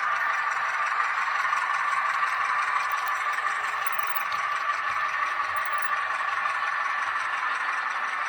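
H0-scale model of a Renfe Alco 313 diesel locomotive running along the track, a steady motor-and-gear whine with running noise from the wheels.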